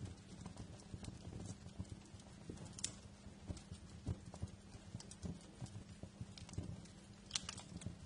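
Wood fire crackling in a fireplace: irregular snaps and pops over a low steady rumble of the flames, with a sharper pop about three seconds in and a quick cluster of pops near the end.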